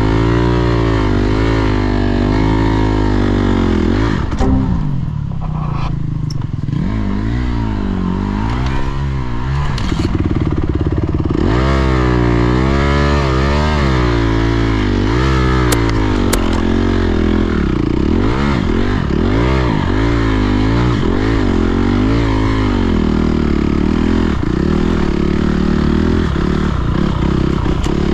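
Dirt bike engine revving up and dropping back over and over, the throttle worked hard on a slippery mud hill climb with little traction.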